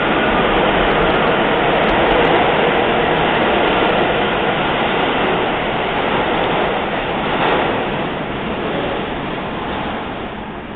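A subway train running through the station with a loud, steady rumble and rattle that slowly fades toward the end.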